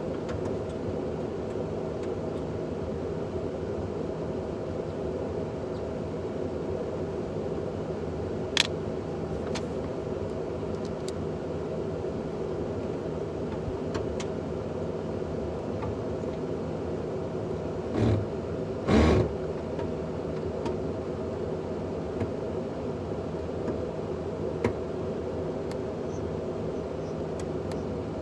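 A steady mechanical hum, as of an engine or blower running, with a sharp click about eight seconds in and two heavier thumps close together a little past halfway.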